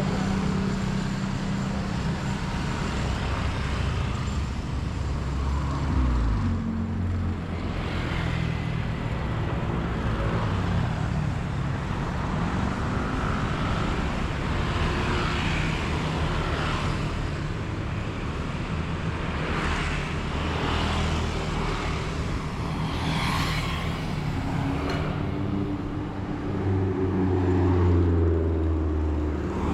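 Road traffic with motor vehicle engines running and passing close by. One engine's note rises in pitch and grows loudest near the end.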